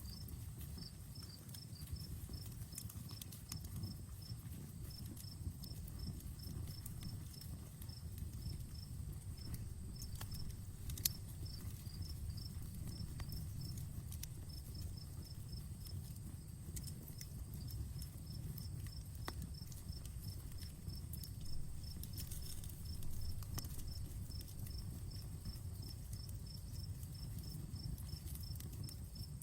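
Outdoor campfire crackling, with scattered pops over a low steady rumble of burning wood. One sharp pop comes about eleven seconds in. An insect chirps in the background in a fast, even high-pitched rhythm throughout.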